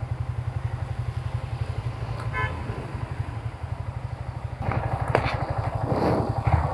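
Yamaha MT-15's single-cylinder engine running with a steady low pulse. A vehicle horn gives a short toot about two and a half seconds in, and louder traffic noise joins from about four and a half seconds.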